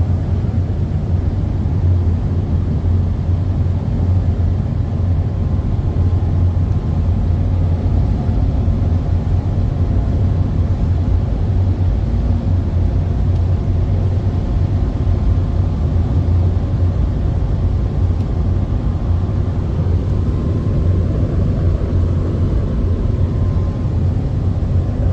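Soft-touch automatic car wash machinery running: a steady, unbroken low rumble, with a faint thin tone joining about 20 seconds in.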